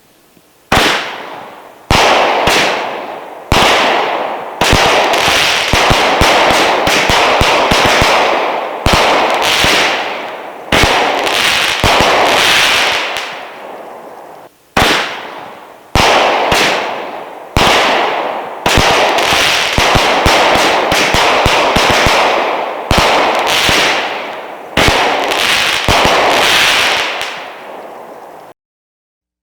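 Shelton's Leapin' Lizards 19-shot firework cake firing, shot after shot about once every second or so, each a sharp launch and bang that dies away over a second or two. The shots stop abruptly about a second before the end.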